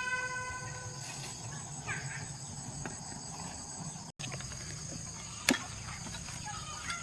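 Steady background buzzing of insects such as crickets, with one sharp click about five and a half seconds in. A pitched tone dies away in the first second.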